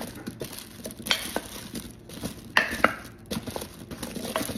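A utensil stirring seasoned potatoes in a slow cooker crock, with irregular scrapes and knocks against the pot, the sharpest about a second in and two close together near the three-second mark.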